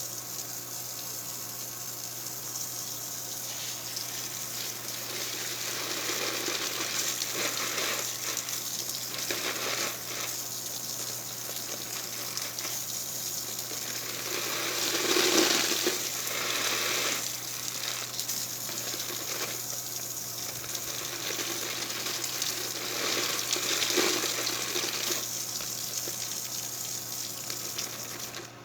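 Water running continuously, swelling louder about halfway through and again near the end, over a faint steady hum.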